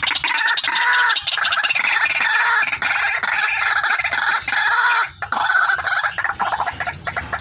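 Female white-breasted waterhen (ruak-ruak) calling, a lure call: a rapid run of repeated notes with a short break about five seconds in.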